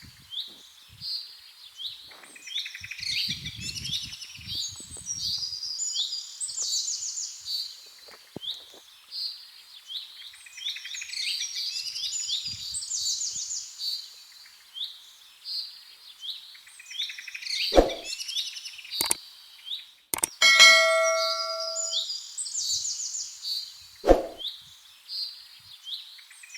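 Songbirds singing continuously in repeated high trills and chirps. A few sharp knocks come through, and about two-thirds of the way in something metal is struck and rings for a second or two.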